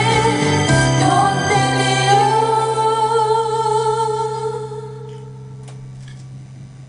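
Women's voices singing a pop ballad together over an instrumental backing, holding a long last note that fades away about two-thirds of the way through, leaving only a faint tail of the accompaniment.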